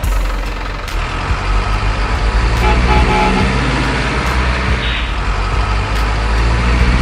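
Truck engine sound of a radio-controlled concrete mixer truck running as it drives off, a steady low rumble. A few short horn toots come about three seconds in.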